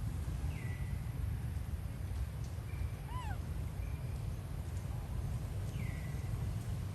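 Steady low rumble under three short animal calls: two high whistles that drop and then level off, and in the middle an arched call with overtones, which a tagger hears as cat- or meow-like.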